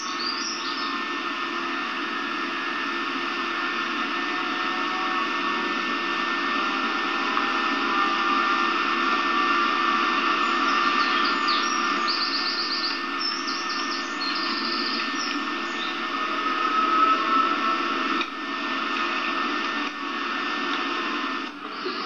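Small birds singing in short, fast trills about ten to fourteen seconds in, over a steady hiss and hum.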